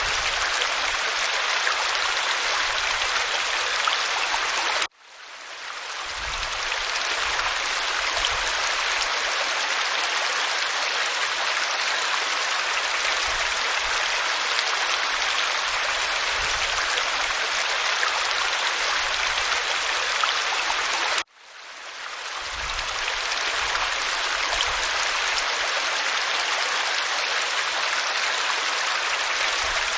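Waterfall spilling over rock: a steady, even rush of falling water. The sound cuts out abruptly twice and swells back in over about a second each time.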